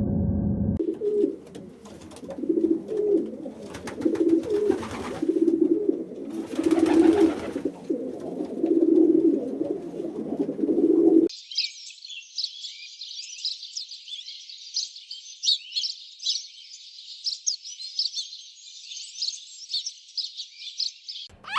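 Bird calls: a low cooing call repeated about once a second, then, after a sudden change a little past halfway, a stretch of rapid high-pitched chirping.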